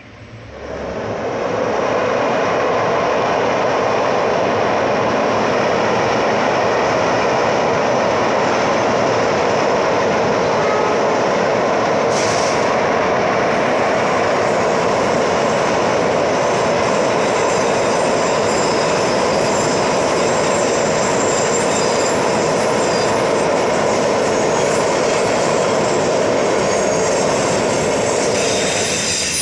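A train passing close by, its wheels running loud and steady on the rails. The sound comes up sharply about a second in, holds for nearly half a minute and fades near the end.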